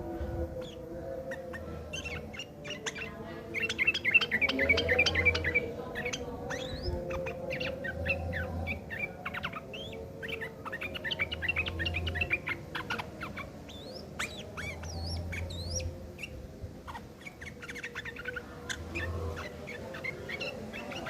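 Yellow-vented bulbul (trucuk) giving harsh, rapid chattering calls, a rough fighting chatter of the kind used as a lure to make other trucuk answer. The chatter comes in dense runs, loudest a few seconds in and again near the middle, over a faint low hum.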